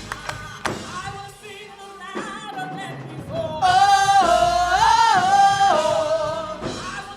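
Live gospel music with singing: percussion over a band, then a singer holds one long, loud note that bends up and down in pitch before breaking off near the end.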